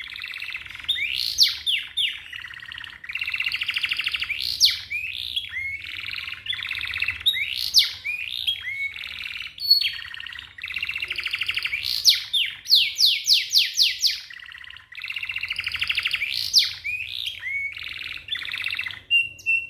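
Domestic canary singing a long, fast song of rapid rolling trills and sweeping notes, with short breaks between phrases and a run of about five quick sweeping notes midway.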